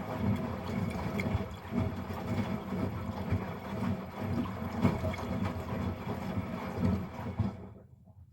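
Miele Professional PW 6065 Vario washing machine in its rinse, the drum tumbling a load of stuffed toys through high water with uneven sloshing and thuds over a faint motor whine. Near the end the drum stops and the sound drops away to a low hum.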